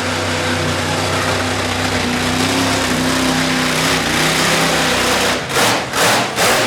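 Monster truck engine running steadily, then revved in four or five short sharp blips near the end.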